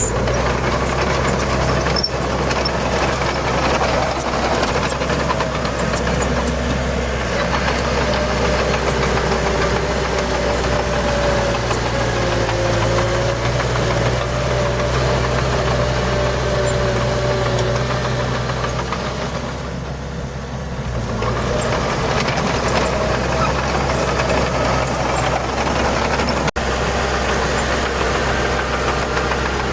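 Bulldozer diesel engine running steadily with a knocking note. It eases off briefly about two-thirds of the way through, then picks back up.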